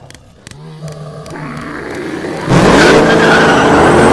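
Race car engine sound effect, coming in loud and sudden about two and a half seconds in, its pitch climbing as it revs. Before it there is a quieter low hum with a few clicks.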